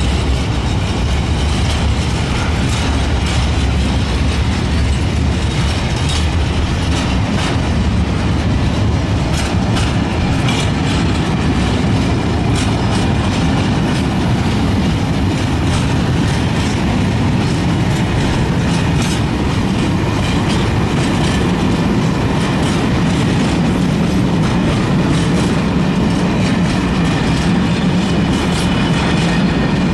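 Freight train of bogie hopper wagons rolling past close by: a steady wheel-on-rail rumble with repeated clicks as the wheels run over rail joints.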